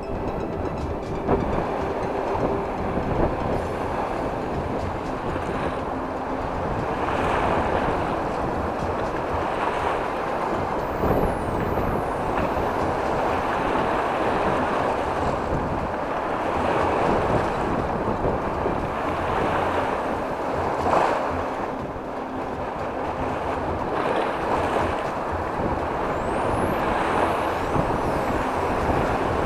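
Waves breaking on a shore in a strong wind, a steady rush of surf that swells and eases every few seconds, with wind buffeting the microphone.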